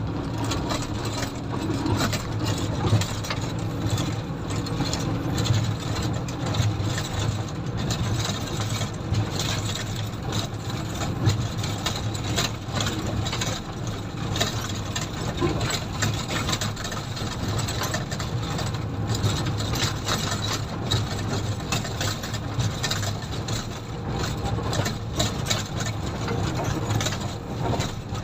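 Komatsu motor grader's diesel engine running steadily under work, with frequent short clatters and knocks from the machine.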